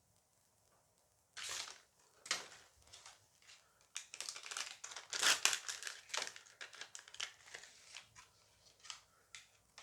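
Plastic-foil booster pack being torn open and crinkled by hand, in irregular rustling bursts that are busiest in the middle.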